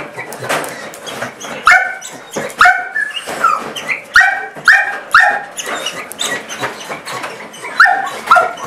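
Portuguese Water Dog making short, high squeaky-toy-like yelps, a mix of bark, whine and panting, about eight of them in quick pairs with panting between: an excited greeting.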